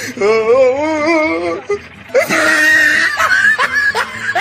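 A voice wailing one long, wavering note for about a second and a half, followed about two seconds in by a harsher, noisier stretch with short sliding tones.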